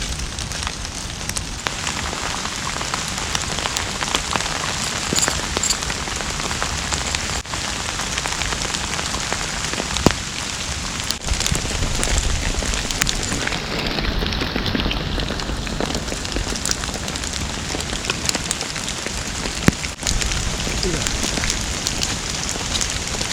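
Steady heavy rain falling, with many sharp individual drop hits ticking throughout.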